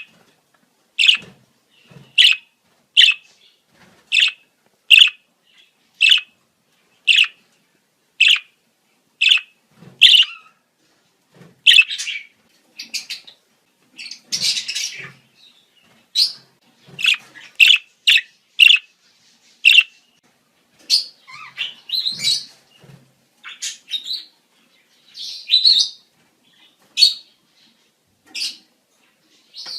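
Budgerigars chirping in the breeding season. For the first ten seconds a sharp chirp comes about once a second; after that the calls turn into a denser, irregular run of chirps and warbling.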